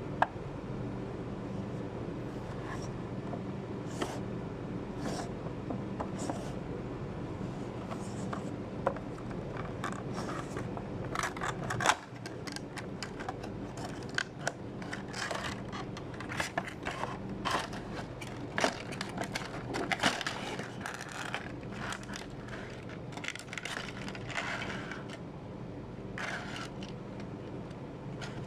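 Irregular clicks, taps and scrapes from small hard objects being handled, over a steady low hum. The clicks are loudest around 4, 9 and 12 seconds in.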